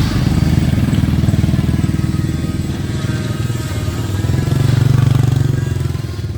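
A small engine running steadily with a fast low pulse, growing louder about four to five seconds in.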